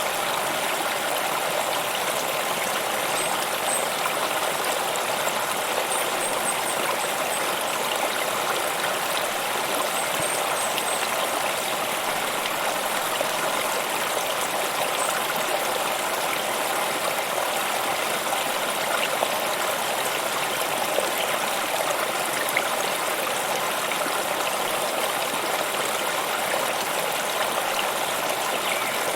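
Stream water flowing and splashing steadily, an even rushing sound with no break, and a few faint high chirps in the first ten seconds or so.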